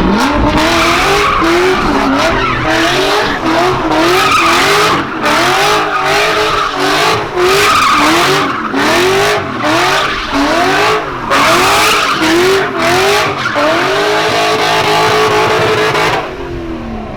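Car engine revved hard and let fall again and again, about once a second, over loud tyre screech, as in a burnout or donuts. Near the end the revs hold high for a couple of seconds, then drop away.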